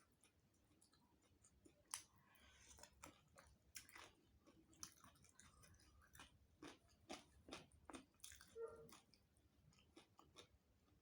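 Close-miked mouth sounds of someone eating rice and curry: faint chewing with a string of short crunches and lip smacks, a sharp one about two seconds in and a quick run of them in the second half.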